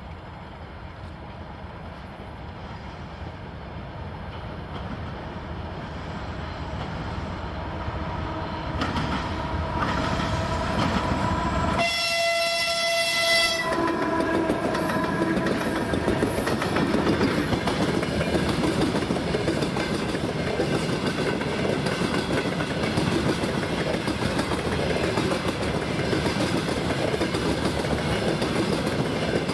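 Two TE33AC diesel-electric locomotives approaching and passing, growing steadily louder. A little before halfway the locomotive horn sounds once, a chord of several tones lasting about a second and a half; then the freight wagons roll past with their wheels clattering over the rails.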